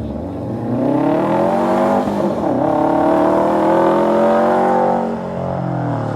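A car engine accelerating hard on an autocross course. Its pitch climbs, dips briefly about two seconds in, climbs again, then falls away near the five-second mark.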